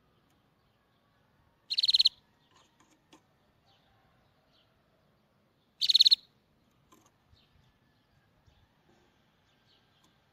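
A bird chirping twice, about four seconds apart, each a short, rapid high-pitched trill.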